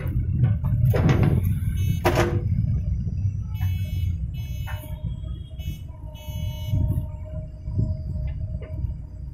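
JCB 3DX backhoe loader's diesel engine running, with a steady low rumble. There are two sharp clanks about one and two seconds in, and a thin steady whine in the second half.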